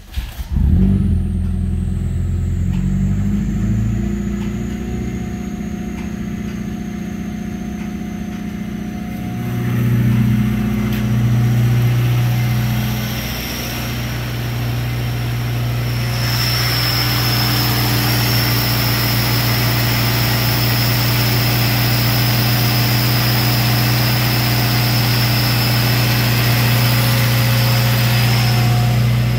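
A 2012 Subaru Legacy's 2.5-litre flat-four engine catches right at the start and then idles steadily. It is heard first from the cabin, then from outside at the open engine bay.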